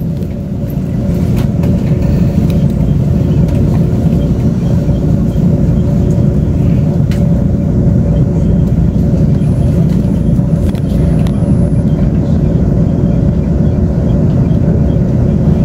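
Taiwan Railways Tze-Chiang express train running, heard from inside the passenger car: a steady low rumble with a constant hum and a few light clicks.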